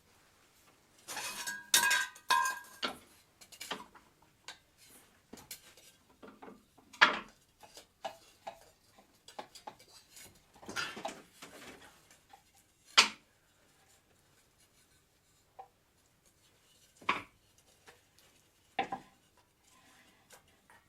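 Hard objects clinking and knocking as they are handled: a burst of clattering with brief metallic ringing about a second in, then single sharp knocks spaced several seconds apart.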